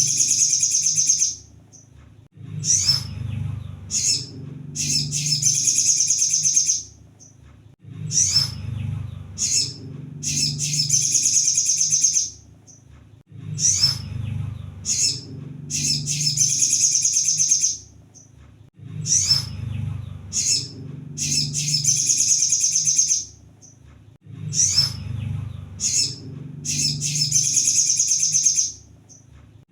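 Crimson sunbird (kolibri sogon) song played as a lure: a few short, sharp high notes, then a fast, high trill of two to three seconds. The phrase repeats about every five and a half seconds, with a low rumble beneath it.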